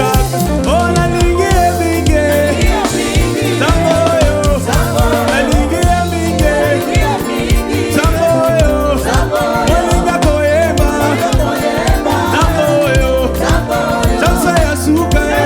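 Live gospel praise-and-worship music: a band with a heavy bass line and steady drum beat under a singing voice.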